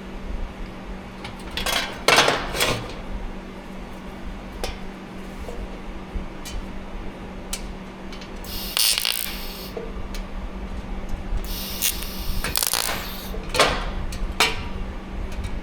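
Metal tools clinking and being handled, with several sharp clanks and two short hissing bursts near the middle, over a steady low hum.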